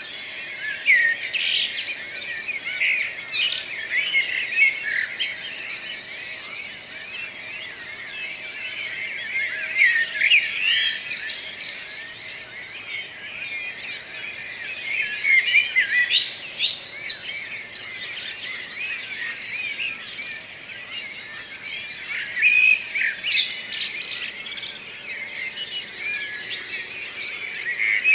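Several birds singing in a morning chorus: dense, overlapping chirps and trills, with louder song phrases rising out of it every few seconds.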